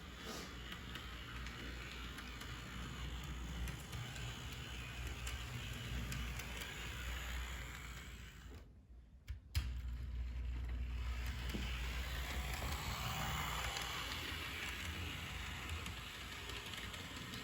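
Tyco HO-scale General Electric switcher model locomotive running on track, its small electric motor and wheels whirring with a low hum. The noise dies away briefly around the middle, then a sharp click and it runs on.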